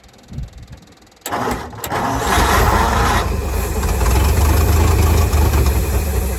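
The engine of a 1955 Ford grain truck that has sat unused a long while, turning over briefly and then catching about a second in with a sudden loud burst and settling into a steady, loud run: its first start after sitting.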